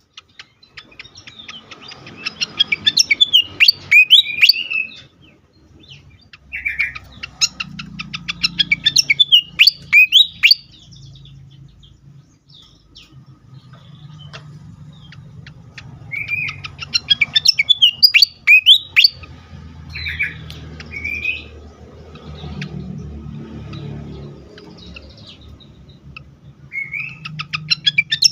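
Malaysian pied fantail (sikatan kipas) singing in repeated phrases a few seconds apart, each a rapid run of ticks climbing into high sweeping whistles. A faint low hum runs underneath.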